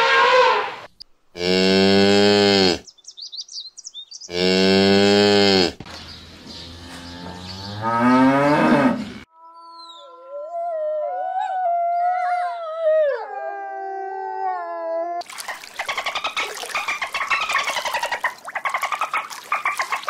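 A sequence of animal calls. First an elephant gives deep bellowing calls, two long ones and then a rising one. About halfway in a wolf howls, a long wail that glides up and down with a second, lower voice under it. In the last few seconds dolphins click rapidly and whistle in a dense chatter.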